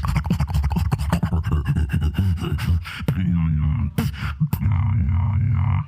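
A beatboxer performing through a microphone: a fast run of sharp percussive mouth clicks and snares for about three seconds, then a held deep bass drone with a wavering vocal tone over it, broken by a couple of sharp clicks.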